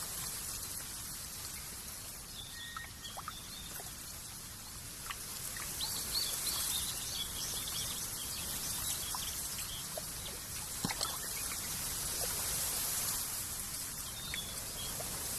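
Countryside nature ambience: a steady hiss with scattered short bird chirps, a little cluster of them about six seconds in.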